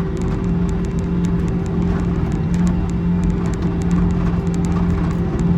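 Skid loader engine running steadily under load as it grades and smooths soil, with a constant hum and light ticking and clatter throughout.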